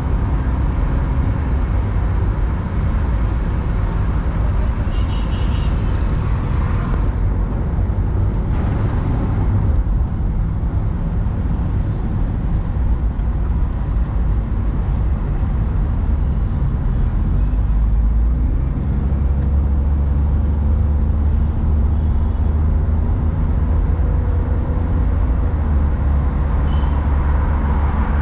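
A car driving: steady engine and road noise. About two-thirds of the way through, the engine note rises and then holds steady.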